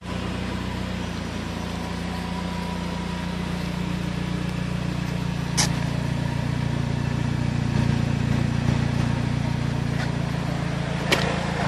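Saab 9-5 exhaust through a stainless catback sport system with two rear silencers, idling with a steady low note. A sharp click sounds about halfway through and another near the end.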